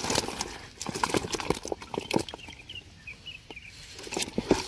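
Freshly caught crucian carp flopping and slapping after being tipped out of a trap: a quick, irregular patter of wet slaps and knocks, thinning out in the middle and picking up again near the end.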